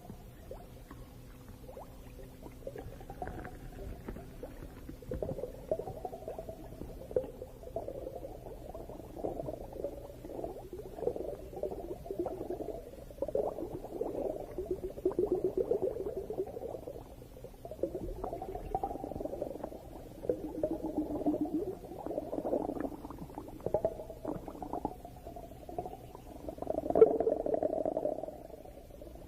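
Underwater bubbling that comes in surges every couple of seconds, loudest near the end, over a faint steady low hum.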